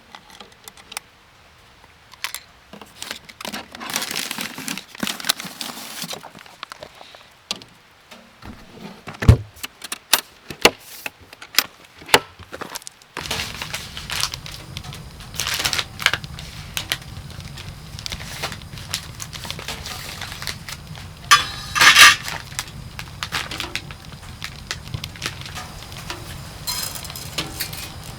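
Handling sounds of wood and camp gear: scattered knocks and clicks with crinkling rustles, and a loud crackly clatter about three-quarters of the way through. A steady low rumble comes in about halfway and keeps going.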